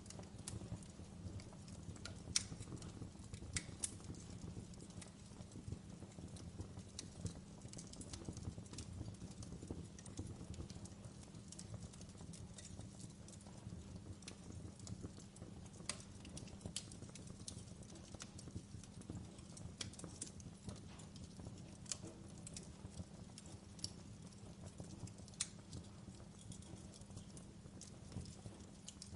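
Wood fire burning in a fireplace: a low steady rumble with scattered sharp crackles and pops throughout, a few of them louder snaps.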